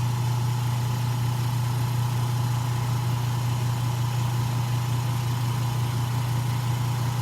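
A screen-refurbishing bubble-removal machine (a pressure autoclave) running with a steady, even low hum and a fainter constant high tone, working the air bubbles out of the newly laminated phone glass.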